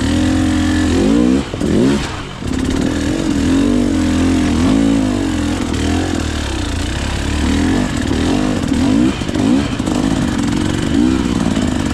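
Two-stroke engine of a KTM EXC 300 enduro bike, its revs rising and falling over and over as the throttle is worked, with a short drop in revs about two seconds in.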